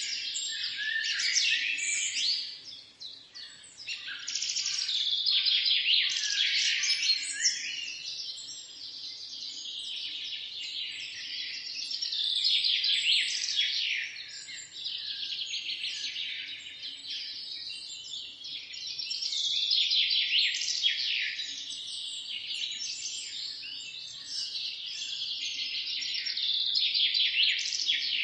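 A dense chorus of many birds chirping and calling over one another, high and busy, swelling and fading about every seven seconds.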